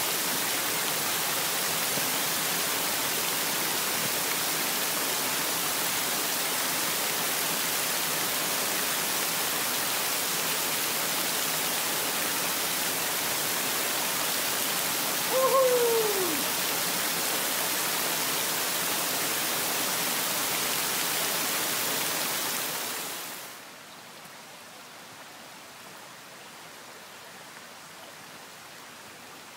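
Steady rushing of a woodland stream cascading over rocks. It falls much quieter about 23 seconds in. A single short falling call is heard just past the middle.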